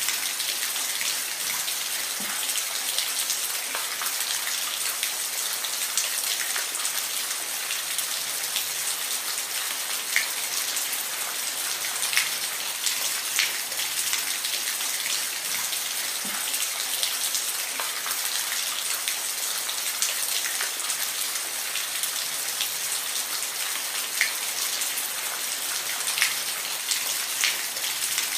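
Steady rain falling, an even hiss with individual drops ticking sharply and irregularly close by.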